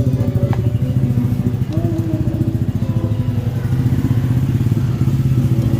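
A motorcycle engine idling steadily, its quick even firing pulses running without a break.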